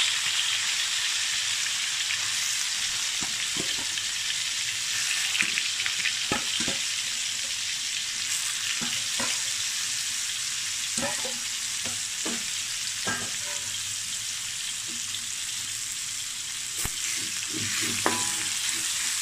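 Soya vegetarian chicken nugget pieces sizzling steadily as they fry in hot oil in a wok, with scattered small pops.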